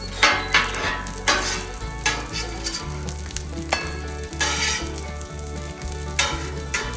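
Burger and fries frying in oil on a hot Blackstone flat-top griddle: a steady sizzle that flares into louder hissing bursts about six times.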